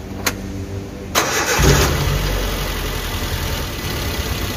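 A click, then about a second in the Suzuki APV's four-cylinder engine cranks on the starter for about half a second, catches and settles into a steady idle. One ignition coil is dead, so one cylinder is not firing, which the mechanic takes to be the cause of the engine shaking and coughing.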